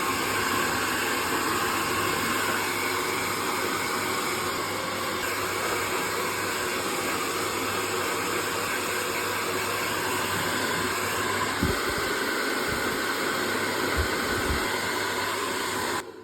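HappyGoo 2400 W AC-motor hair dryer blowing steadily, with a few brief low bumps in the second half, then switched off just at the end.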